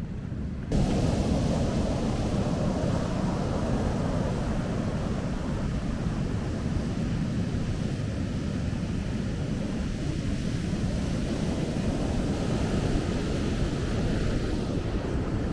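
Steady rush of ocean surf mixed with wind buffeting the microphone, starting abruptly about a second in.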